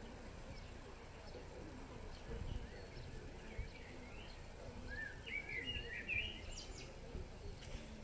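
Small birds chirping and calling, with a busier run of quick chirps about five to six and a half seconds in, over a low steady background rumble.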